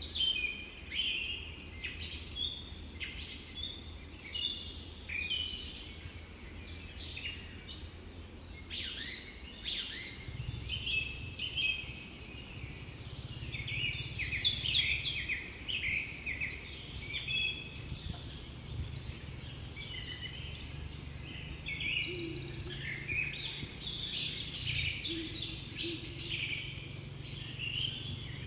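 Many small songbirds chirping and singing at once, a continuous chorus of short, overlapping chirps and trills. A low steady rumble underneath grows louder about ten seconds in.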